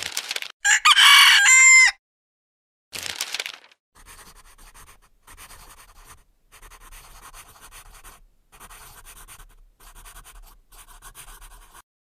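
A rooster crowing once, a long held crow about a second in. After it come faint, scratchy noises in short stretches.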